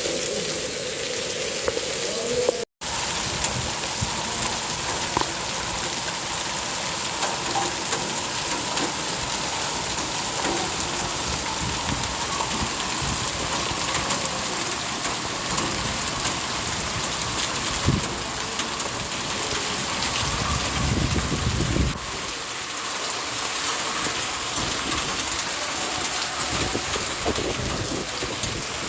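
Steady heavy rain falling and pattering on surfaces. About three quarters of the way through, a low rumble swells and then cuts off suddenly.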